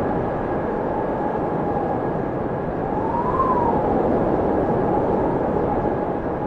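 Blizzard wind howling with a dense, steady roar, and a thin whistle in it that rises and falls in pitch about halfway through.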